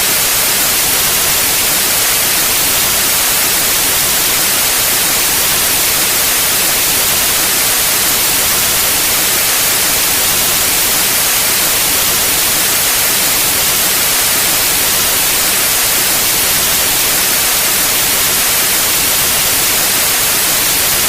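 Steady white noise: a loud, even hiss, strongest in the high frequencies, that does not change.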